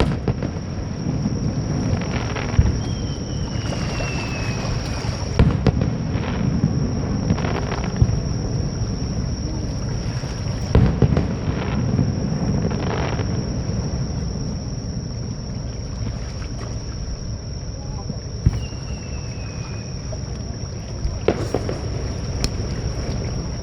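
Fireworks display: booms and sharp cracks at irregular intervals over a steady low wash of shore waves and crowd noise. A few short falling whistles are heard.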